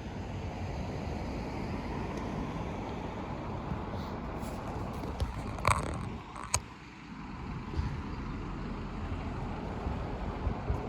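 Steady low rumble of vehicles, with two sharp clicks a little past the middle.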